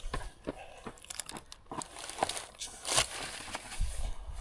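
Crinkly rustling with many irregular clicks and crackles close to the microphone, and a brief low rumble a little before the end.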